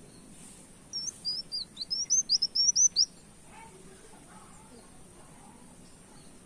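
Kolibri wulung sunbird singing a quick run of about ten sharp, high chirping notes, growing louder, about one to three seconds in, followed by a few faint lower chirps.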